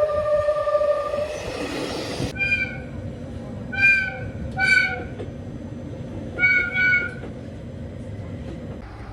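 A train horn's held note cuts off about a second and a half in, followed by a brief rush of train noise. Then comes a series of short, high-pitched toots on the train's whistle: single blasts, then a quick pair near the end.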